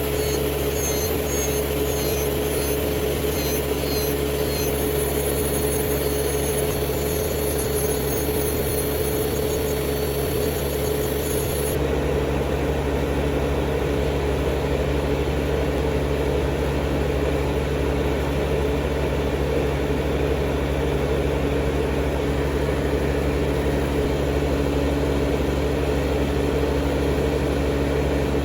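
Electric nail drill (e-file) motor running steadily with a constant whine, as used for removing old gel with a carbide bit.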